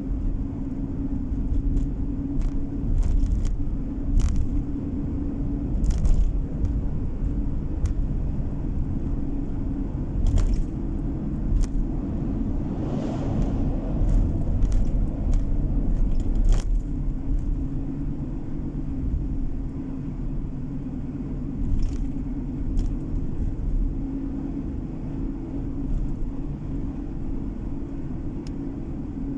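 Car driving on the road, heard from inside the cabin: a steady low rumble of engine and tyres with a constant hum, scattered short clicks, and a hissing swell that rises and fades about halfway through.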